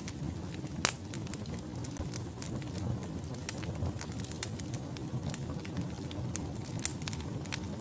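Wood logs burning in a fireplace: a steady low rumble of flame with irregular sharp crackles and pops, the loudest pop about a second in.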